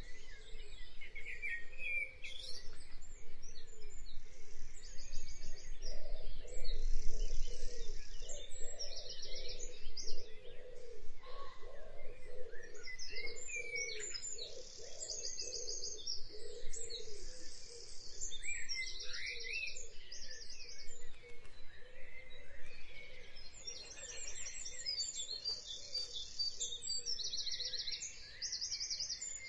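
Birds chirping and singing, with repeated fast high trills, over steady background noise.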